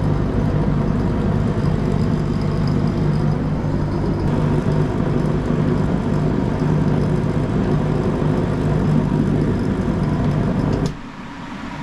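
Draper IR20 diesel/kerosene space heater running: a loud, steady drone with a low hum. It cuts off suddenly about eleven seconds in, when the heater is switched off.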